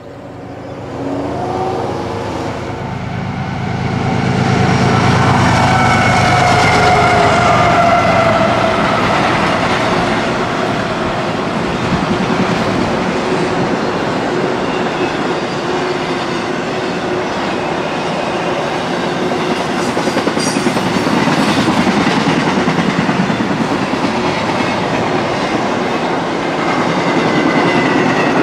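Freight train passing close by: the sound swells over the first few seconds as it arrives, then holds as a steady rumble with the clickety-clack of wheels over the rails as the cars roll past.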